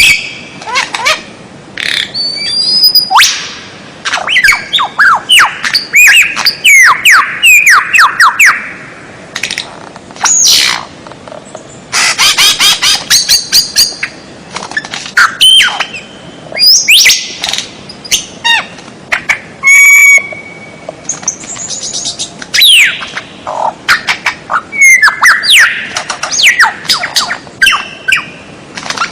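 Loud songbird song: a fast, varied string of sharp whistles, chirps, falling sweeps and squawks with short gaps, and one buzzy rattling call about two-thirds of the way through. It is masteran birdsong, played to tutor caged songbirds.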